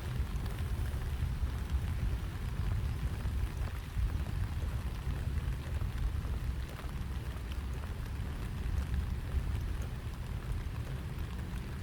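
Steady rain pattering on an umbrella overhead, many small drop ticks, over a steady low rumble.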